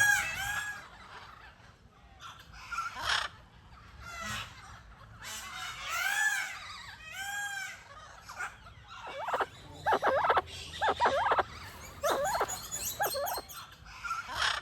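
Birds calling: a few rising-and-falling calls around the middle, then a run of short, rapid, harsh calls in the last few seconds.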